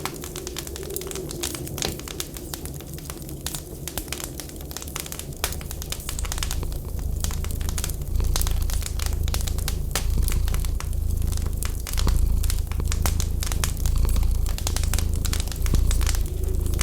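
Wood fire crackling in a fireplace, a dense run of small irregular pops and snaps. About six seconds in a low pulsing rumble comes in underneath and stays.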